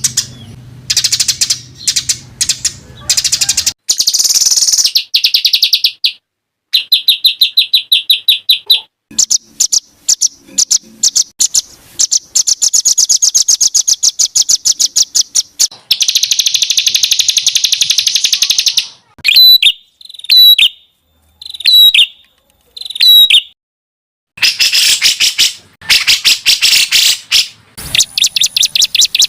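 Songbird song: loud, rapid-fire trills of fast repeated high notes in runs of a few seconds, broken by short pauses. About two-thirds through come four short separate phrases with sharp pitch sweeps.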